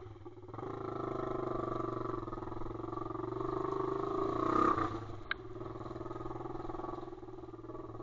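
Pit bike's single-cylinder engine running as it is ridden, picking up about half a second in, growing louder toward the middle, then easing off a little after about five seconds.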